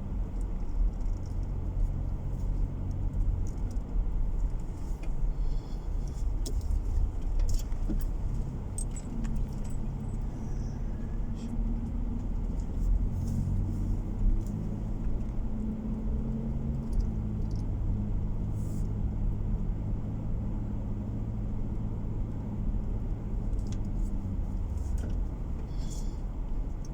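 Car driving on the road, heard from inside the cabin: a steady low engine and tyre rumble whose pitch shifts slightly, with scattered light rattles and clicks.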